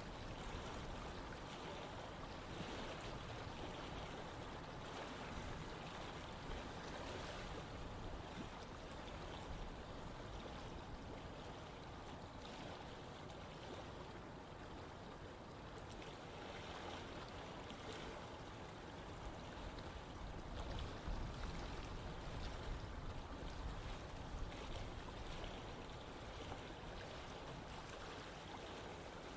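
Running water of a stream, a steady rush that swells a little about two-thirds of the way through.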